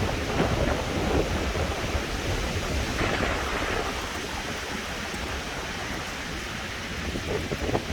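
Wind rumbling and buffeting on the microphone over a steady outdoor hiss, with small irregular crackles; it eases off a little towards the end.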